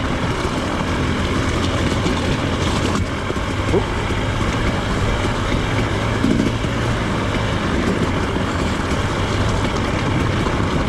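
Off-road trail motorcycle engine running at low, steady revs on a downhill stretch, with continuous ride noise.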